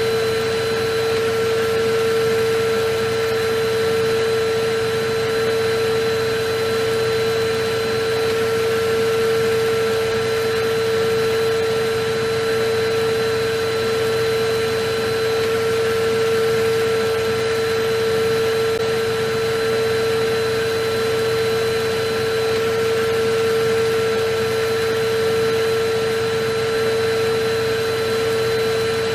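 Vacuum cleaner running continuously at an unchanging speed: a steady motor tone over even rushing-air noise.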